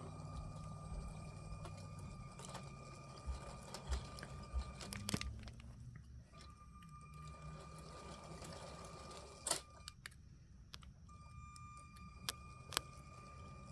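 Powered LEGO GP7 locomotive model running on plastic track: its small electric motor whines steadily, with a low rattle of wheels and sharp plastic clicks. The whine cuts out twice for about a second, as the train stops and starts during switching.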